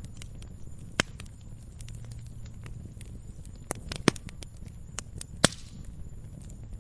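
Campfire crackling: scattered sharp snaps and pops over a low steady rumble, with louder pops about one, four and five and a half seconds in.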